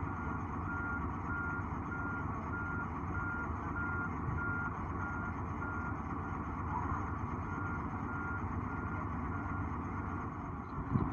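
A heavy machine's reversing/travel alarm beeping at an even pace, about one and a half beeps a second, over a steadily running diesel engine; the beeping stops for a moment past the middle and then starts again.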